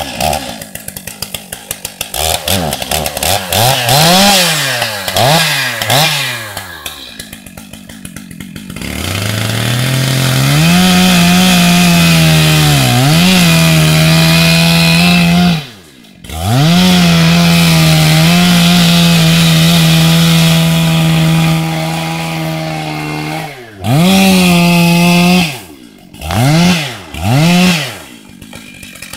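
Chainsaw revved in a few quick rises and falls, then held at full throttle for long steady stretches while cutting wood, dropping off briefly about halfway through, with a few more short revs near the end.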